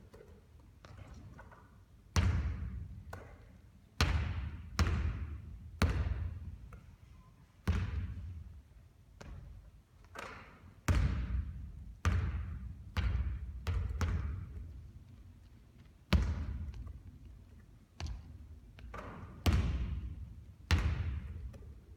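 A basketball bouncing on a hard court, about twenty irregular thuds every half second to two seconds, each followed by a short echoing decay.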